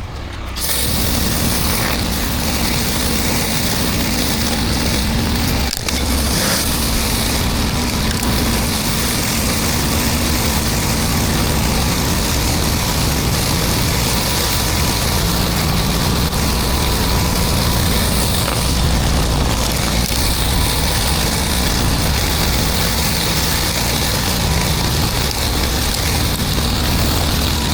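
Pressure washer running: a steady engine drone under a loud hiss of high-pressure water spraying concrete. It comes on about half a second in and drops out briefly once, near six seconds in.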